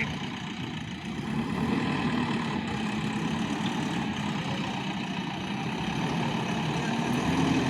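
Diesel engine of a JCB 3DX backhoe loader running steadily at low speed.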